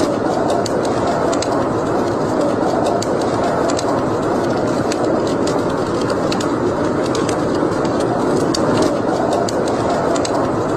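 Wood fire burning in a fireplace: a steady noisy rush with frequent, irregular sharp crackles and pops.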